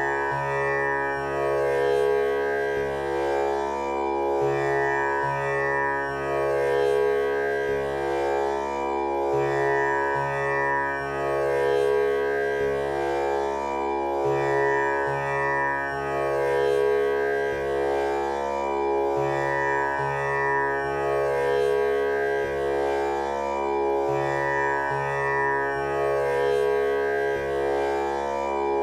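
Tanpura drone tuned to C# for a male voice, its strings plucked one after another in a steady cycle that repeats about every five seconds, the notes ringing on without a break.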